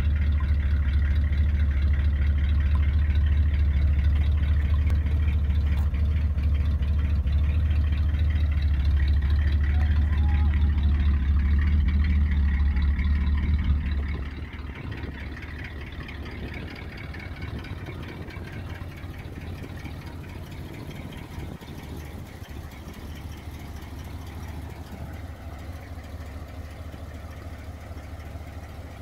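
A 1959 Cadillac's engine idling with a steady low rumble, which drops clearly in level about halfway through and then runs on quieter.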